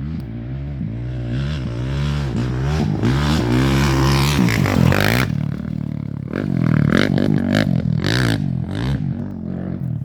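Off-road race vehicle engine revving hard as it passes, its pitch rising and falling with the throttle and loudest about halfway through, with scraping and clattering from the course.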